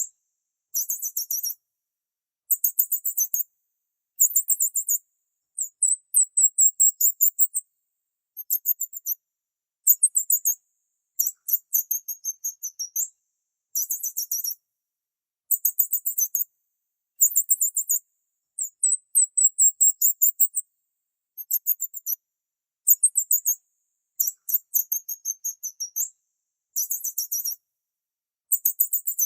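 Small bird chirping in short, very high-pitched bursts of rapid notes, a burst about every one and a half to two seconds with silent gaps between.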